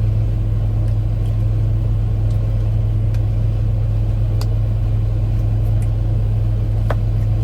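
A truck's engine idling with a steady low hum, heard from inside the cab, with a few faint clicks near the end.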